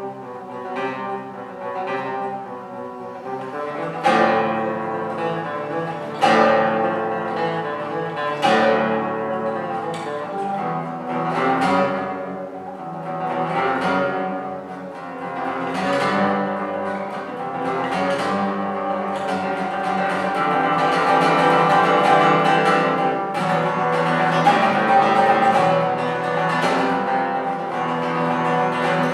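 Solo classical guitar playing, with sharp plucked chords ringing out every few seconds. The playing grows louder and denser about two thirds of the way through.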